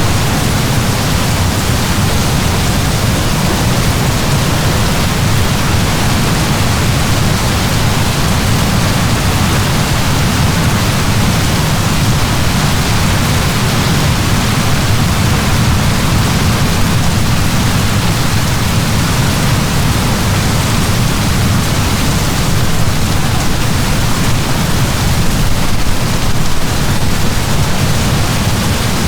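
Heavy rain falling in a steady, unbroken downpour, a dense even hiss with a low rumble beneath it.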